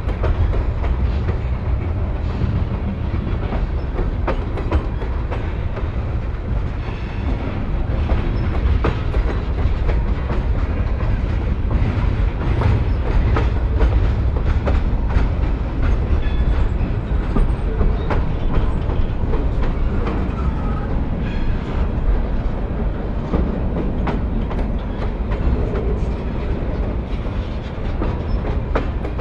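Train cars rolling past: a steady low rumble of steel wheels on rail, with frequent clicks and clacks as the wheels cross rail joints.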